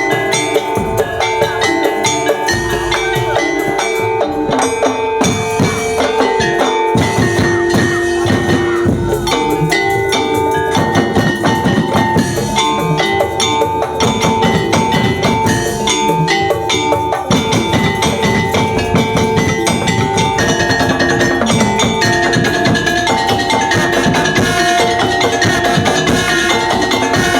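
Percussion ensemble music: tuned mallet instruments ringing held notes over a dense, steady beat of drums and struck percussion.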